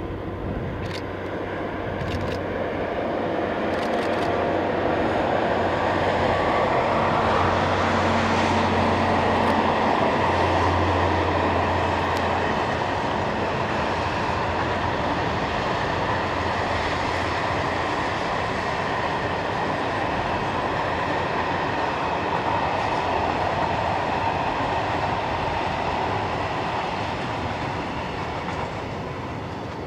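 A Siemens Hellas Sprinter electric locomotive passes with a long freight train of steel-coil wagons. There is a low steady hum for the first dozen seconds as the locomotive goes by, then the steady rumble of the wagons' wheels rolling past. The sound builds to its loudest about a third of the way in and fades near the end as the last wagons clear.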